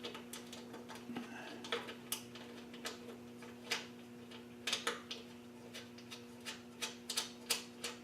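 Irregular small metallic clicks and taps of a screwdriver, wrench and screw being worked to thread a nut onto a mini bike's chain guard bracket, over a steady low hum.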